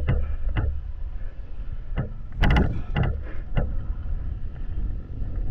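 Heavy wind rumble on the microphone, overlaid by about six sharp knocks or thumps; the loudest comes about two and a half seconds in.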